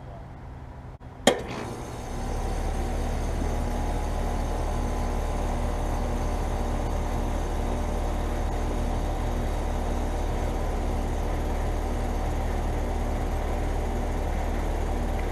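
Bryant Legacy Line 15 heat pump starting up in heat mode: a sharp click about a second in, then its Copeland scroll compressor and outdoor fan come up to speed within about a second and run with a steady low hum.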